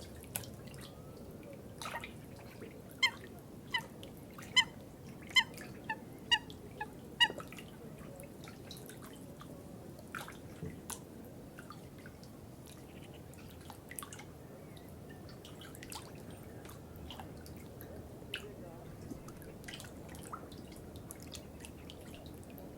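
Water dripping into water. From about 3 to 7 seconds in comes a run of about seven loud, ringing plinks, each a little over half a second apart; after that, fainter scattered drips fall over a low, steady background.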